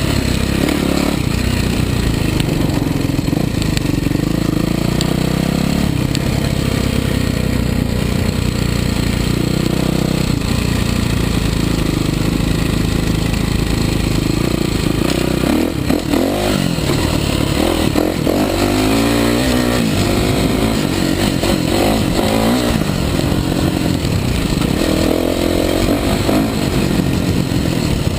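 Kawasaki KX450's four-stroke single-cylinder engine being ridden hard, its revs rising and falling again and again as the throttle is opened and shut.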